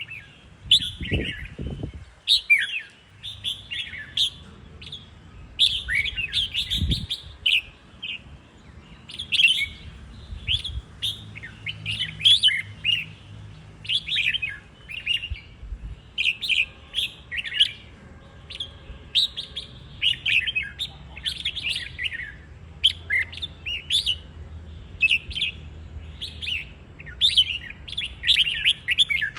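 Red-whiskered bulbuls singing, a steady run of short, quickly repeated chirping phrases. A few low thumps come in the first two seconds and again about seven seconds in.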